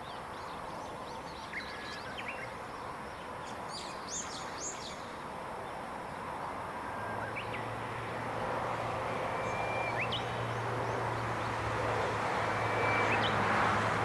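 Wild birds chirping and calling with short, scattered notes over a steady outdoor hiss that slowly grows louder. About halfway through, a low steady hum comes in underneath and stays.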